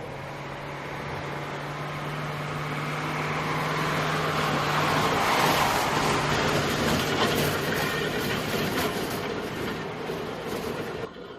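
A heavy military vehicle drives past. Its engine hum and road noise grow louder to a peak about halfway through, then fade, and the sound cuts off abruptly near the end.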